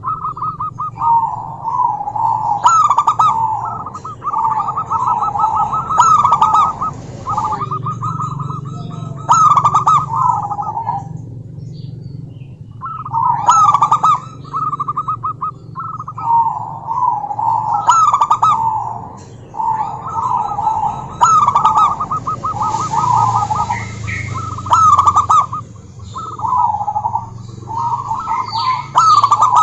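Zebra dove, a female by the uploader's account, giving rapid trilled cooing phrases near 1 kHz. The phrases repeat again and again with short pauses between them.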